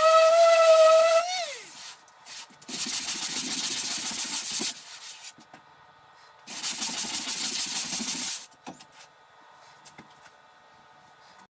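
A motor's steady whine that winds down and stops about a second in, then two long rasping passes of sanding on XPS foam, each about two seconds, with quiet between.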